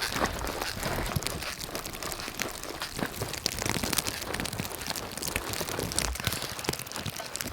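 Footsteps crunching through snow: a dense, irregular run of crunches.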